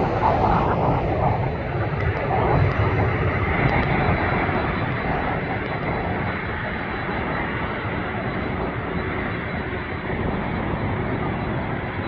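Jet airliner engines running, a steady rumble with a thin high whine over it, a little louder in the first few seconds.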